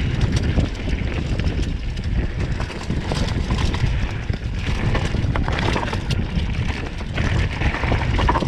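A mountain bike descending a rough trail: wind buffeting the camera microphone over the rumble of tyres on dirt and stones, with a steady clatter of the bike rattling over bumps.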